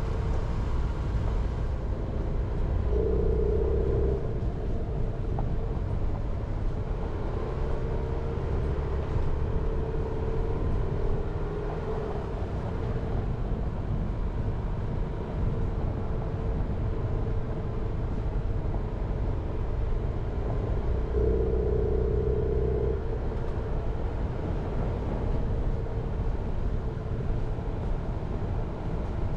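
Jeep Renegade driving, with a steady low rumble of engine and road noise. The engine tone swells briefly twice, a few seconds in and again about two-thirds of the way through.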